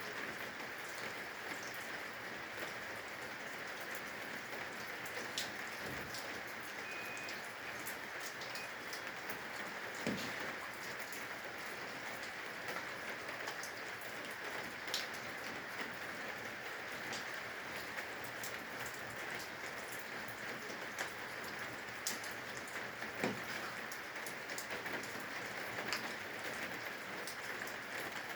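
Steady rain falling on roof eaves, an even hiss with scattered louder drips striking a surface every few seconds.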